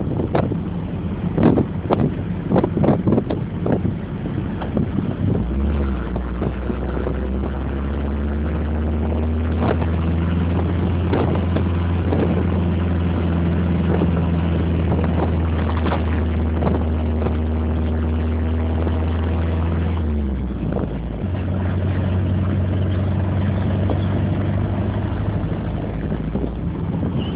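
Triumph Spitfire's four-cylinder engine running on the move, with wind and road noise. For the first few seconds it comes with sharp knocks and rattles from a rough road. It then settles into a steady drone at constant speed. The drone breaks off briefly about twenty seconds in and comes back.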